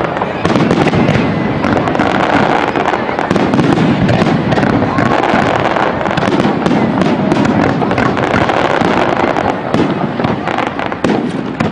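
Aerial fireworks display going off continuously: a dense run of shell bursts and crackling with no let-up.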